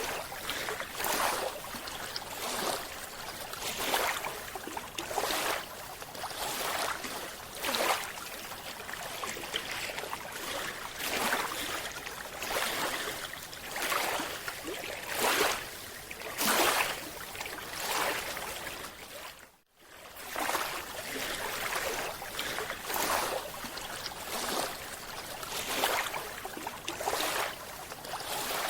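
Rushing water noise that surges and fades about every second and a half, with a sudden brief drop-out about twenty seconds in.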